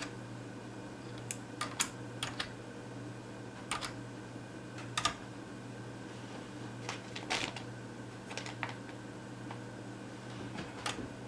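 About a dozen light, irregular clicks and taps over a steady low hum.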